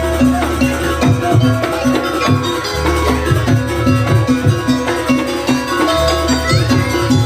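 Banyuwangi traditional gamelan music played live: a quick repeating figure of short pitched notes over drum strokes, with a deep held tone coming back about every three seconds.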